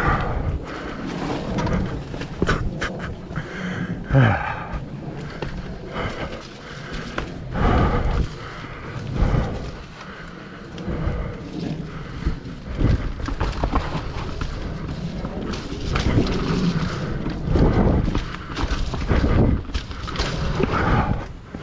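A mountain biker breathing hard while riding, over the irregular knocking and rumbling of the bike on rough, wet trail, with uneven bumps and swells of noise throughout.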